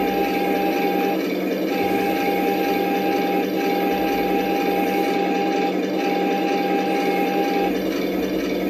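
1/16 scale RC Elefant tank with Tamiya electronics running at rest, a steady mechanical rumble with a fast even patter. A thin whine comes and goes four times over it.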